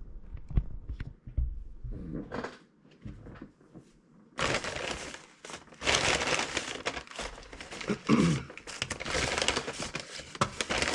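Paper fast-food packaging crinkling and rustling as it is handled. Scattered light knocks come first, then steady, dense crinkling from about four seconds in.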